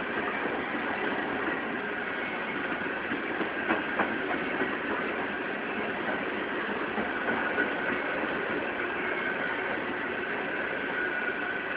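Empty coal hopper cars of a BNSF unit coal train rolling past: a steady rolling rumble of wheels on rail with a faint high steady tone above it. A few sharp clicks from the wheels come about four seconds in.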